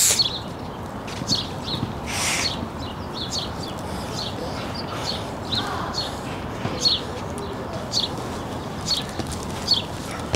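Small birds chirping: many short, high chirps repeating at irregular intervals, with two brief rushing noise bursts near the start and about two seconds in.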